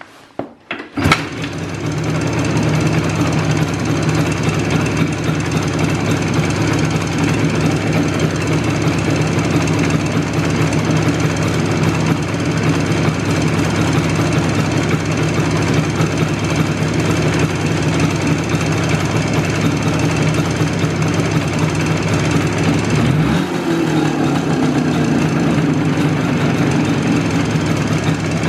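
IZh Jupiter two-stroke twin engine comes in with a loud clunk about a second in, then runs steadily with a hard knocking. The knock is piston slap: the skirts of the Kent pistons are rattling in cylinders bored to a 0.2 mm clearance. The running note shifts briefly a little over 20 seconds in.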